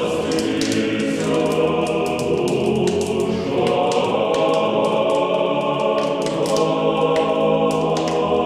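A choir singing slow, sustained chords as closing music, the chord shifting a couple of times.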